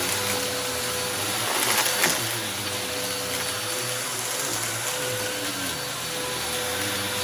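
Bissell upright vacuum cleaner running steadily over a rug strewn with test debris, its motor holding a steady hum. About two seconds in, a brief louder surge of noise comes as debris is sucked up.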